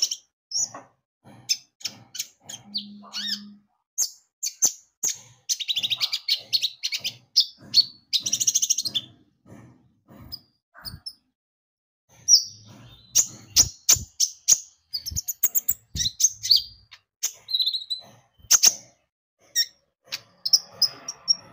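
Konin (kolibri ninja), a sunbird, singing a fast, high twittering song of quick chirps and rattling trills, with a break of about two seconds midway.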